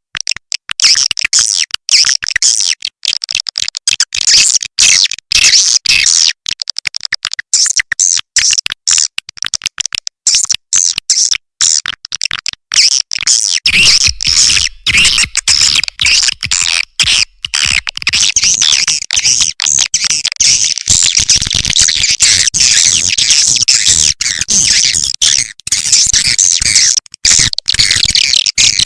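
Recorded swiftlet calls used as a lure for a swiftlet house: dense, high-pitched chattering twitters from many birds, broken up by frequent abrupt cuts. From about halfway in, a low hum runs underneath.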